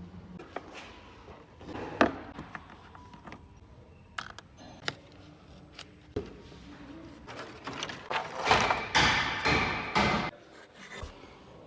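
Metal tools and parts clinking and knocking during work on a car engine: scattered clicks, a sharp knock about two seconds in, and a denser run of clattering and scraping with some metallic ringing near the end.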